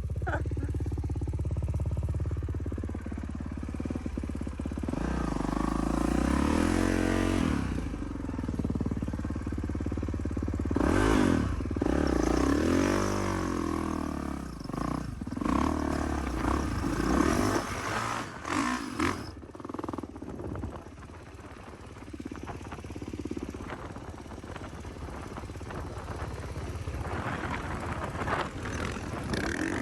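450cc four-stroke single-cylinder dirt bike engines revving up and easing off over and over, their pitch rising and falling as the throttle is worked, with a few sharp surges about halfway through.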